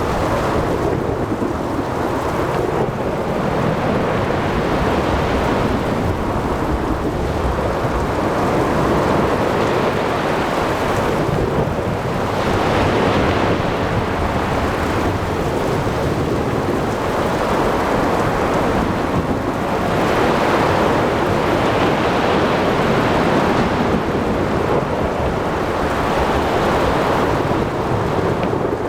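Thunderstorm at sea: heavy rain and rumbling thunder over crashing surf, a dense steady roar that swells and eases every few seconds.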